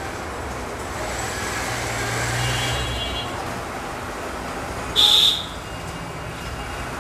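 Steady street traffic noise with a low vehicle rumble that swells and fades in the first half, and a short, loud high-pitched sound about five seconds in.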